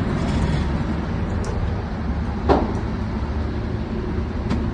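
Steady low background rumble, with one sharp click or knock about two and a half seconds in and a fainter click near the end.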